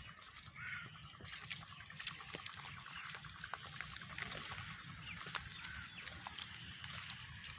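Goats grazing: a steady rustle of vegetation with many small sharp clicks and crunches of feeding and moving about, and a few faint short chirps.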